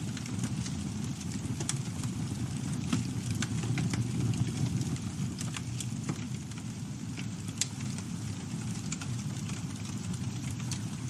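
Campfire burning: a steady low rumble of the flames with scattered sharp crackles and pops of burning wood, one louder pop about two-thirds of the way through.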